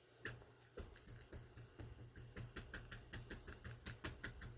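Ink pad dabbed repeatedly against a rubber stamp to re-ink it: a run of faint quick taps, about four or five a second, starting shortly in.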